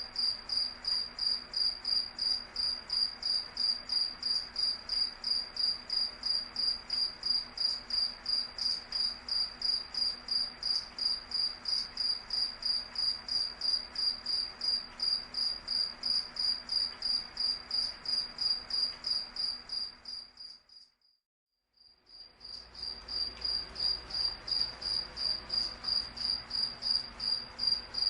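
A cricket chirping in a steady high-pitched pulse, about three chirps a second. It fades out for about a second around two-thirds of the way through, then fades back in.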